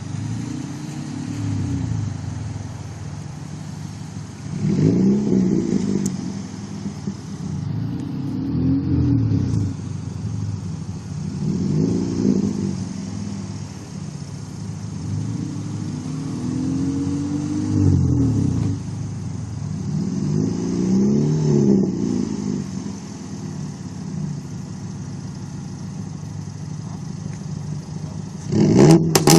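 Car engine and exhaust revved again and again while standing, each rev climbing and falling back, about one every three to four seconds. Near the end come several quick, sharp throttle blips.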